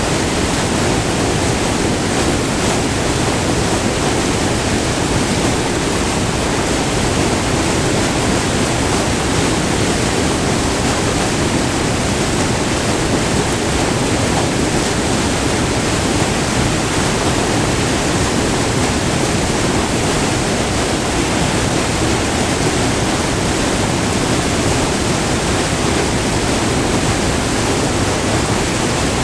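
Steady rush of white water tumbling over a short, multi-tiered river waterfall, recorded up close.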